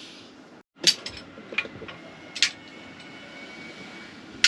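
A handful of sharp knocks and clicks, the loudest about a second in and at the very end, over a faint steady background hum.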